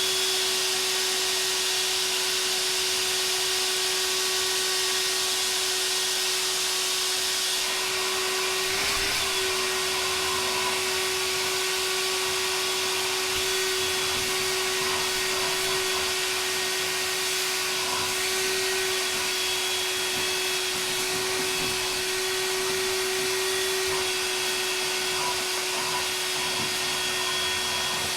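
Ryobi 18V ONE+ cordless wet/dry vacuum running steadily, a constant motor hum under a rush of air, as it sucks wood bits and debris out of the gap between floor tile and wall. A brief knock sounds about nine seconds in.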